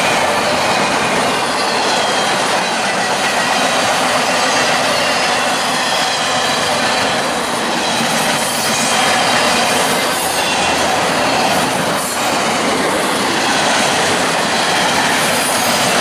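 Southbound CSX train's cars rolling past close by, a loud steady rumble of wheels on rail with clickety-clack over the rail joints.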